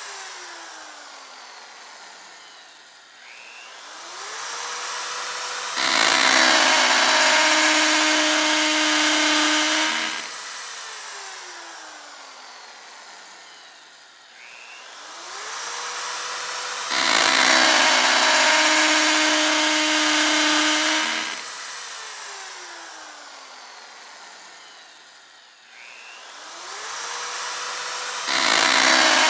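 Electric drill revving up with a rising whine, running loudly under load for about four seconds, then winding down with a long falling whine. The cycle repeats about every eleven seconds.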